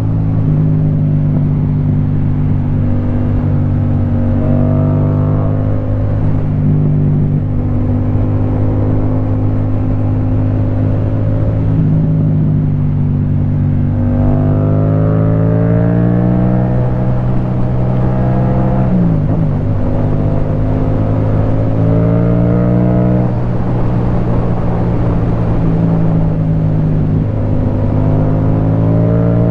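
Yamaha MT-07's parallel-twin engine through an Akrapovic Racing Line titanium exhaust, running at steady revs while riding. About halfway through the revs climb under acceleration, drop sharply at a gear change about two-thirds in, then climb again.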